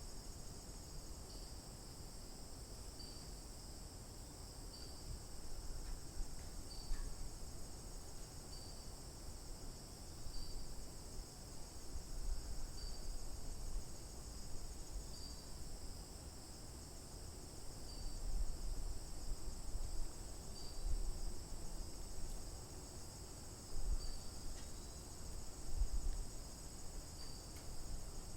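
Steady high-pitched chorus of insects such as crickets, with a short chirp repeating about every second and a half to two seconds. A low rumble comes and goes underneath.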